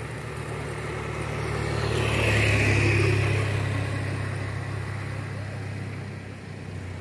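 A motor vehicle's engine running steadily with a low hum. It grows louder about two seconds in and then fades over the next few seconds.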